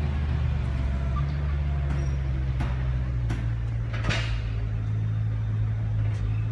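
Steady low drone of a car in motion, engine and road noise heard from inside the vehicle. A few faint clicks come in the middle, and a brief whoosh comes about four seconds in.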